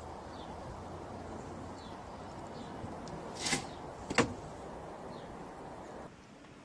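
Quiet room hiss with two brief sounds: a short swish about three and a half seconds in and a sharp click or knock just after it.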